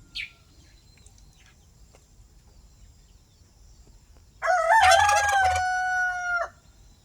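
A rooster crowing once, about two seconds long: a wavering rise, then a long steady final note that breaks off. A short bird chirp comes just after the start.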